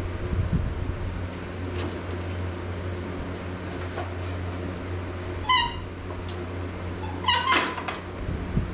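A dog whining in two short high-pitched bursts, one about halfway in and a longer one near the end, over a steady low hum.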